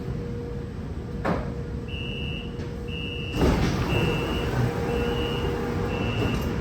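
Metro train door-closing warning: five high beeps about a second apart, with a rush of noise from about halfway in as the sliding doors move, over a steady electrical hum. A single click comes about a second in.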